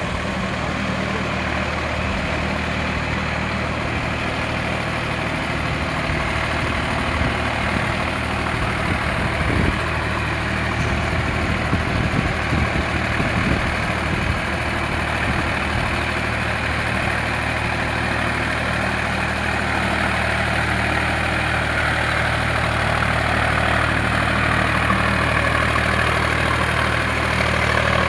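Sonalika RX 47 tractor's diesel engine running steadily.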